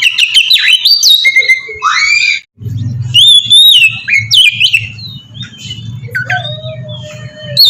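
Oriental magpie-robin singing a loud, varied song of sliding whistles and quick chirps, in the continuous 'ngeplong' style. The song breaks off briefly about two and a half seconds in, and after that a low steady hum runs underneath it.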